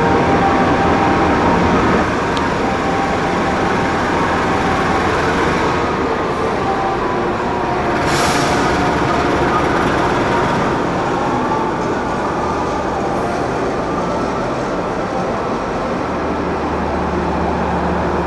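CC206 diesel-electric locomotive hauling a passenger train in along the platform and running past, followed by the coaches rolling by on the rails. A short hiss comes about eight seconds in.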